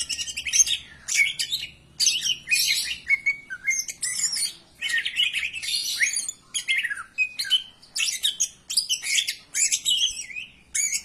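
Cucak ijo (greater green leafbird) singing a fast, varied, high-pitched song of chirps, trills and gliding whistles, in short phrases about a second apart.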